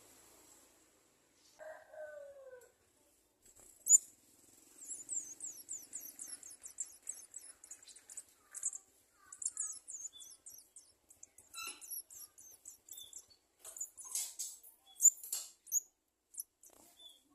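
Garden sunbird nestlings begging with a rapid stream of very high-pitched chirps that starts about four and a half seconds in, with a few louder sharp notes. A short lower falling call comes near two seconds in.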